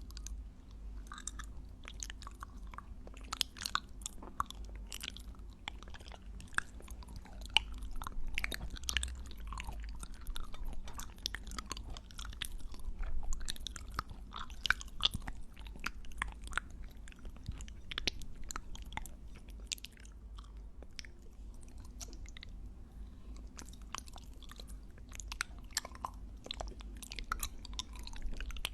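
Close-miked ASMR chewing and biting: dense, irregular wet clicks and crackles from a mouth right at the microphone.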